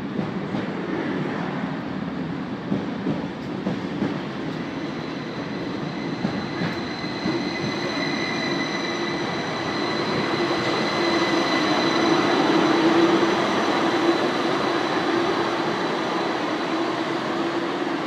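SBB double-deck electric commuter train running along the platform, with a steady high whine that sets in about five seconds in over the rolling rail noise. The sound grows louder to a peak a little past the middle, then eases slightly.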